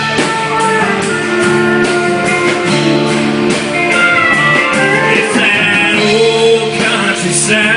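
Live country band playing an instrumental passage between vocal lines, led by guitar over bass and drums.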